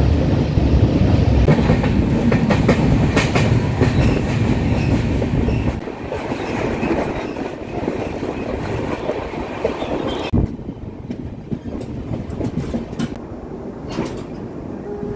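LHB passenger train running at speed, wheels clattering over rail joints. A loud low rumble, plausibly from an express passing on the next track, drops away sharply about six seconds in, and the running noise falls again around ten seconds in.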